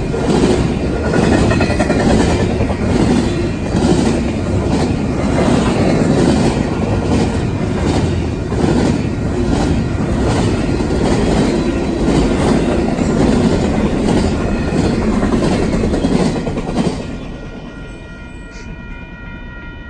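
Union Pacific freight train rolling past over a grade crossing: a loud steady rumble with regular clickety-clack of the wheels over the rail joints. About three seconds before the end the noise drops off sharply as the train clears.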